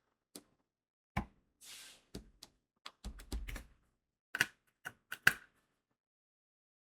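Diamond painting work: small crystal drills clicking and tapping as they are placed and pressed onto the adhesive canvas, in irregular single clicks and knocks. A short rustling hiss comes about a second and a half in, and a few sharper clicks come near the end.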